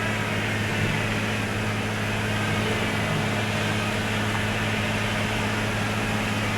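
Car engine running steadily: an even low hum with a steady hiss over it.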